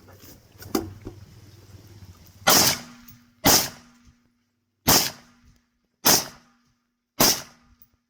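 Five gunshots fired at an uneven pace, roughly a second apart, each cracking sharply and dying away quickly. A fainter crack comes shortly before them.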